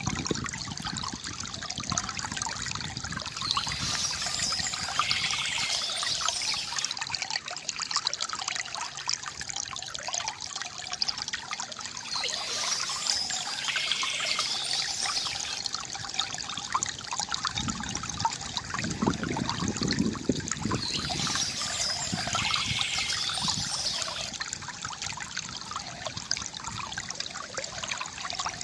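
Water trickling and gurgling steadily from a bamboo fountain spout into a basin, with a deeper, fuller gurgle about two-thirds of the way through.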